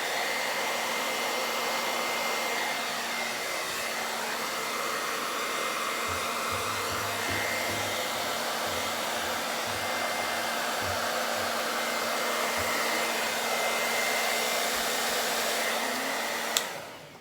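Hair dryer running steadily, blowing fluid acrylic paint across a canvas, with a faint steady whine in its rush of air. It is switched off with a click near the end.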